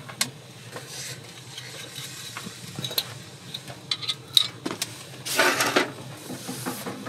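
Scattered small clinks and taps of tableware and utensils being handled at a table, with a brief rustle about five seconds in.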